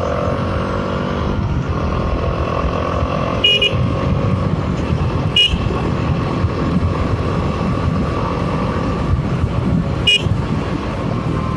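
Bajaj Dominar 400's 373cc liquid-cooled single-cylinder engine running steadily as the motorcycle rides along the road. Three short horn toots sound during it: one a few seconds in, one near the middle and one near the end.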